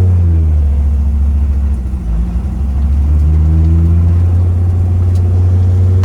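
Dodge Viper V10 race engine heard from inside the cabin, running at low revs with a steady deep drone and only small changes in pitch, lugged along at low rpm.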